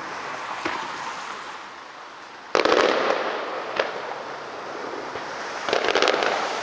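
Fireworks bursting and crackling: a sudden loud burst about two and a half seconds in that crackles as it fades, a single sharp crack a second later, and another crackling burst near the end.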